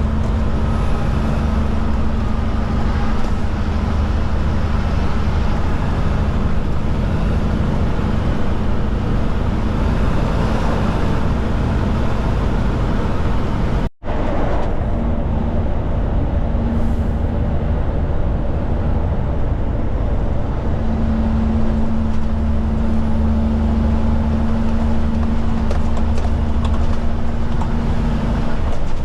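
Kenworth K200 cabover's Cummins diesel engine and road noise heard from inside the cab while driving, a steady low drone. The sound cuts out for an instant about halfway through, then carries on.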